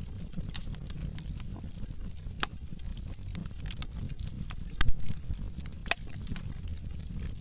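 Wood logs burning in a fireplace, crackling with many sharp pops over a low, steady rumble of flames. One pop about five seconds in is loudest.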